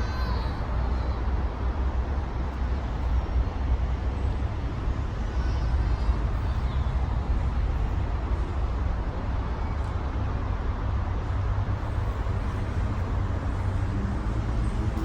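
Steady road traffic noise from passing cars: a continuous low rumble with a few brief, faint high chirps near the start and about five seconds in.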